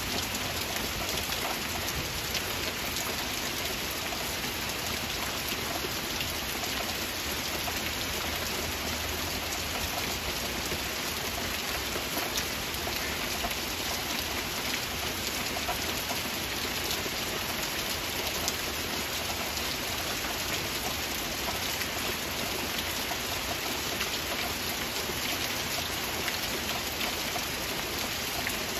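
Heavy rain falling steadily: an even, unbroken hiss with many fine drop ticks.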